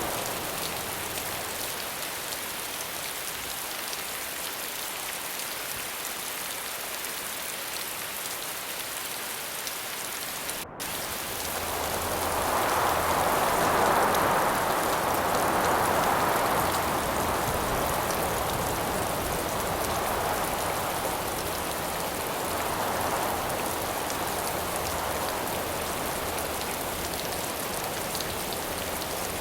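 Steady rain falling, broken by a split-second gap about a third of the way in. After the gap a gust of wind swells up and dies away over several seconds, and a smaller gust follows later.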